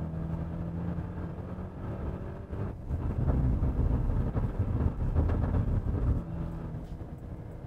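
Maserati Levante GT Hybrid's 2.0 turbo four-cylinder engine pulling hard down the straight on a fast lap, a steady hum with road noise. About three seconds in it becomes a louder, rougher rumble, which eases off after about six seconds.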